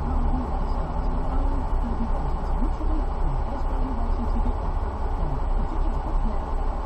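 Steady road and engine rumble inside a moving car's cabin, with faint voices underneath.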